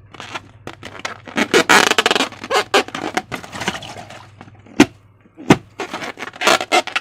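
Slime being squeezed and stretched by hand: a busy run of crackles and clicks, with two sharp snaps near the middle.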